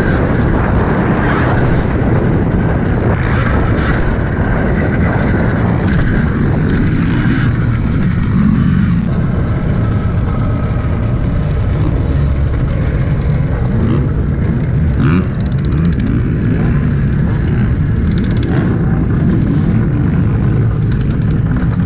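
Alta Redshift MXR electric dirt bike being ridden on a motocross track, heard from a helmet-mounted camera: a steady rush of wind over the microphone with riding noise beneath it. A thin high whine from the electric motor fades out about eight seconds in.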